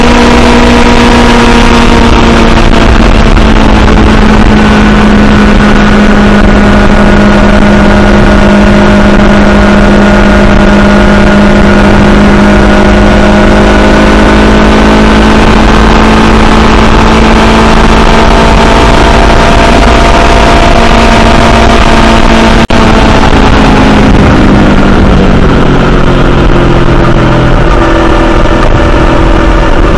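Honda CBR500R's parallel-twin engine running at steady cruising revs under heavy wind noise on the microphone. Near the end the engine note drops as the bike slows.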